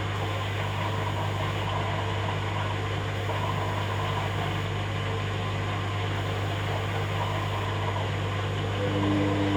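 Hoover Dynamic Next washing machine running its rinse and spin cycle: a steady low motor hum over mechanical noise. Near the end a higher steady tone joins and it gets a little louder.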